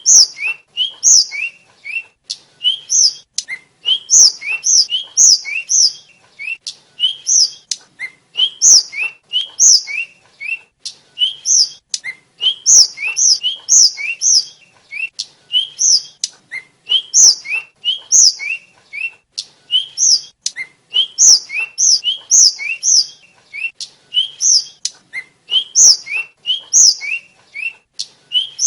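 Tledekan (sikatan) flycatcher singing a fast, continuous song of short, high, clear whistled chirps, phrase after phrase with hardly a break.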